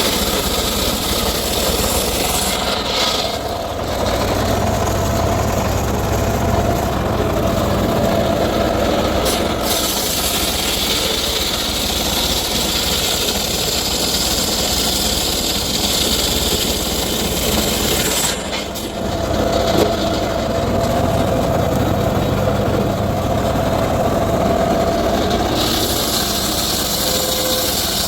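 Circular saw running and cutting teak wood: a steady loud machine noise that dips briefly a few seconds in and again about two-thirds of the way through.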